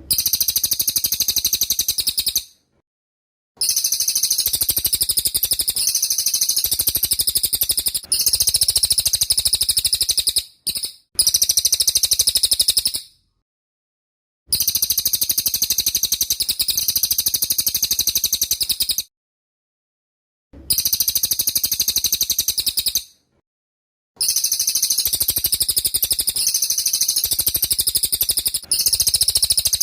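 Cililin songbird singing a shrill, rapid-fire 'tembak' style song. It comes in long runs of fast, high-pitched notes, several seconds each, broken by about six short silent gaps.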